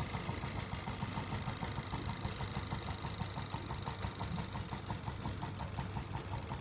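Homemade gamma-type Stirling engine running steadily, a low rumble with a quick, even ticking from its moving parts.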